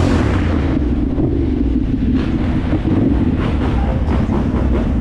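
Dirt bike engine running steadily at low revs, a continuous low rumble with a fast even pulse.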